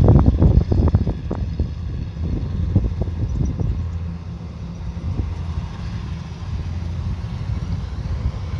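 Kubota combine harvester running steadily with a low engine drone, and a quick run of knocks and rattles over the first three or four seconds that then dies away.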